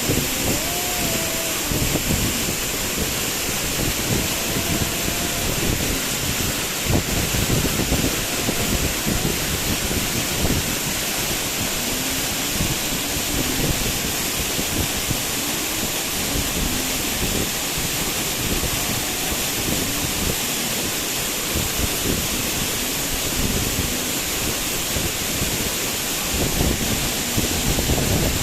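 Waterfall rushing steadily, a constant wash of falling water, with wind buffeting the microphone in gusts.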